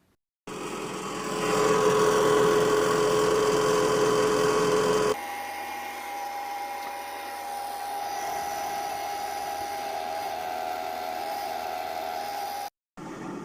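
Small electric extractor fan running with a steady whine, rising to full speed over the first second. About five seconds in, it cuts to a quieter, steady run with a higher tone, which stops abruptly near the end.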